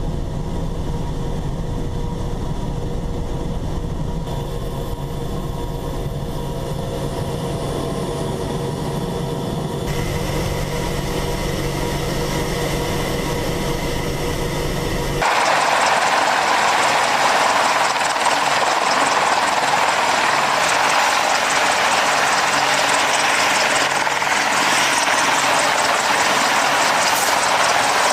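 Apache attack helicopter's engines and rotor running steadily: first a low hum with a few steady tones, then about fifteen seconds in an abrupt switch to a louder, hissing turbine and rotor rush that carries on.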